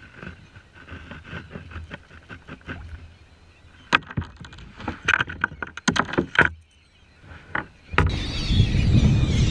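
Irregular sharp knocks and splashes around a fishing kayak, with birds faintly calling over a feeding blitz. About eight seconds in, a sudden loud, steady rushing noise takes over.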